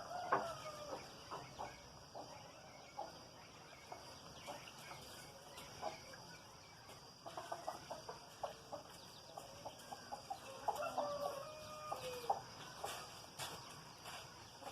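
Chickens clucking, with many short calls scattered through and a longer drawn-out call about eleven seconds in.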